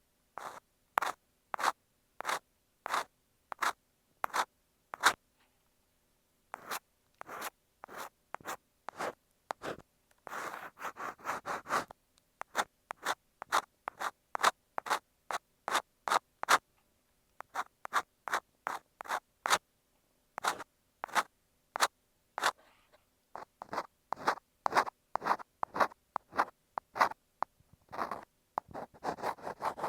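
Ear pick scraping and scratching on an earphone microphone, in short separate strokes about one or two a second. There are quicker runs of rapid scratching about ten seconds in and again near the end.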